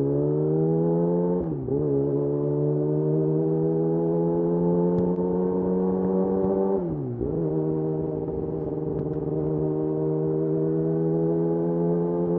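Yamaha YZF-R6's inline-four through a de-catted Akrapovic slip-on exhaust, accelerating. The note climbs slowly in each gear and dips sharply at two quick upshifts, about a second and a half in and about seven seconds in.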